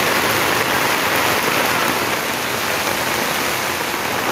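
Steady rain falling on a wet street, an even hiss of rain on the pavement.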